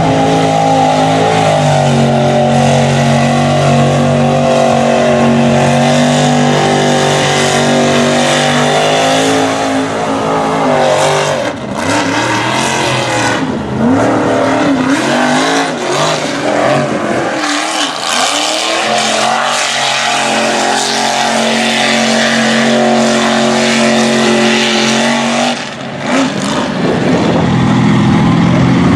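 Mud truck engine running hard at a steady high pitch for about ten seconds. In the middle the pitch then rises and falls repeatedly as the throttle is worked, before it holds steady again and dips briefly near the end.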